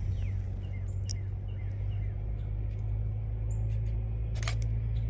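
Outdoor ambience with a steady low hum, small birds chirping faintly in short falling notes, and a few sharp clicks or knocks near the end.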